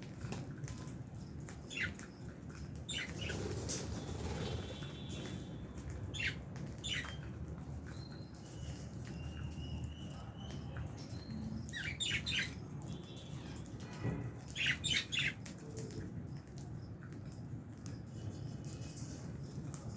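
Aviary lovebirds making short chirps and squawks at irregular intervals, with a few longer whistled notes near the middle, a burst of calls near the end, and wing flutters.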